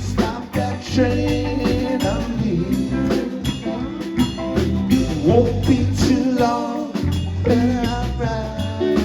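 Live band playing a reggae song on guitars, bass guitar and drum kit, with a steady beat and lead guitar lines over the groove.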